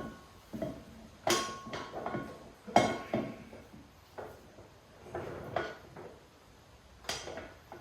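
Metal clanking as a Humvee driveshaft's splined yoke is pushed and worked against the transfer case output and will not slide on: it does not fit. There are three sharp clanks, some ringing briefly, with lighter knocks between them.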